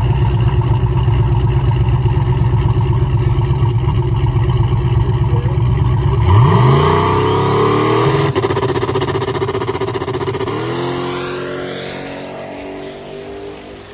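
Car engine running with a loud low rumble, then accelerating hard about six seconds in, its pitch climbing and dropping back through two more gear changes as it pulls away and fades.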